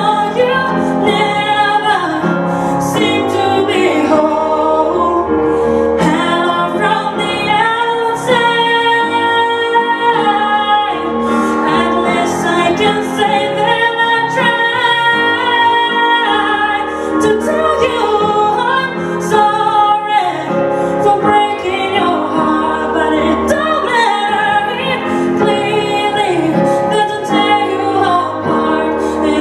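Music with a woman singing a song.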